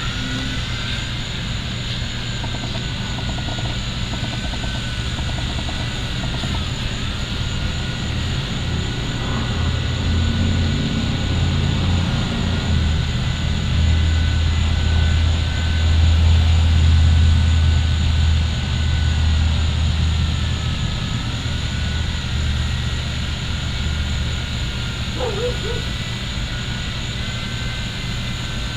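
V911 micro RC helicopter's small electric motors whining in flight, the pitch dipping and climbing back several times as the throttle changes. A low rumble swells through the middle and is loudest about halfway through.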